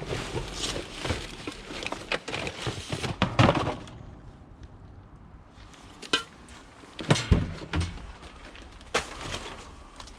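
Hands rummaging through rubbish in a bin: dense rustling and clattering of junk for the first few seconds, then a few separate sharp knocks as objects, among them a small pump, are shifted.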